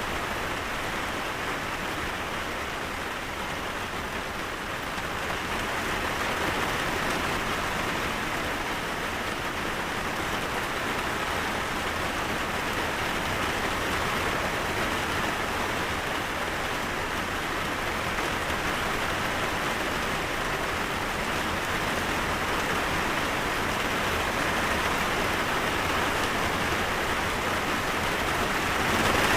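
Steady rain falling, an even hiss of drops without breaks, growing slightly heavier after a few seconds.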